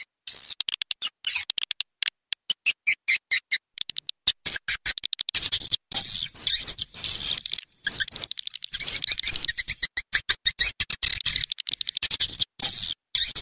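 Recorded swiftlet calls played as a lure for swiftlet houses: rapid trains of short, high chirps and twitters, repeatedly broken off by sudden silent gaps.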